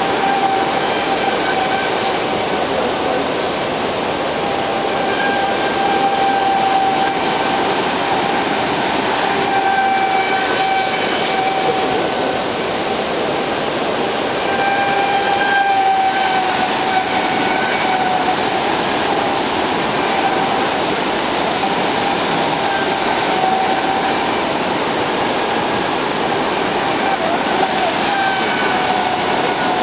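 Rushing water of rapids below a dam, with the steady whine of a Traxxas Spartan RC speed boat's brushless electric motor over it, its pitch wavering slightly and growing stronger at moments as the boat runs.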